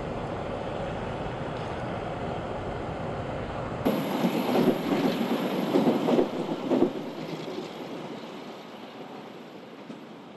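Steady road and wind noise heard from inside a moving car. About four seconds in it gives way abruptly to a passenger train passing close, its wheels clattering and knocking on the rails, then fading as the train moves away.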